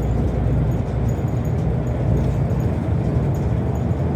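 Steady low engine and road rumble heard from inside a moving city bus.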